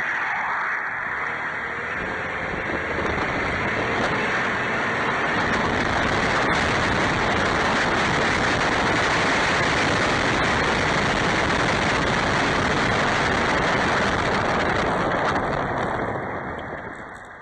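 Truck driving at speed: steady road and tyre noise with engine, building over the first few seconds, then fading away near the end as it slows toward a stop.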